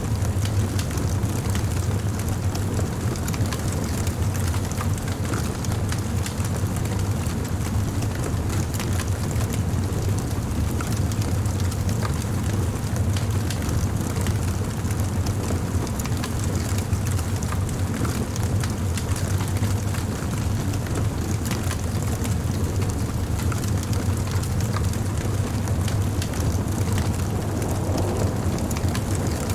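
Wood bonfire burning: a steady low rush of flame with many small crackles and pops scattered throughout.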